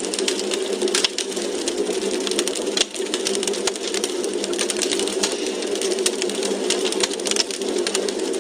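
Wood fire crackling in a fireplace: dense, irregular small pops and snaps over a steady low rush of burning.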